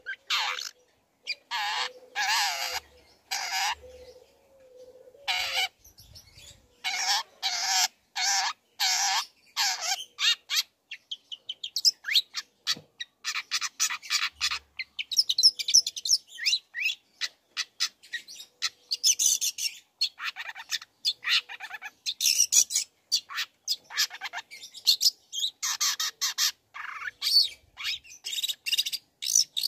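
Long-tailed shrike (cendet) singing: runs of harsh, rasping calls about half a second each, then from about eleven seconds in quicker, varied chirps and twittering notes.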